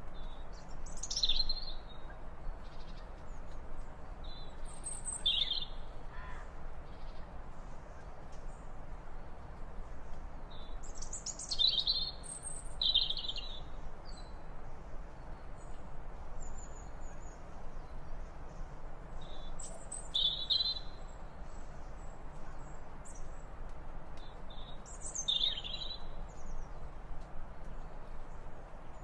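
Bird calls: short, high calls that fall in pitch, coming in small groups every few seconds over a faint steady background hiss.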